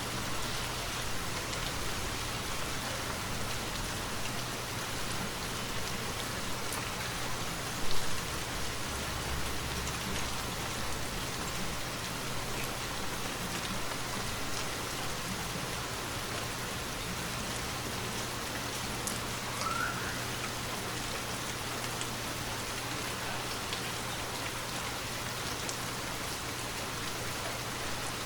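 Steady rainfall pattering on forest foliage and ground. A single brief, sharp knock stands out about eight seconds in, and a short rising chirp is heard about two-thirds of the way through.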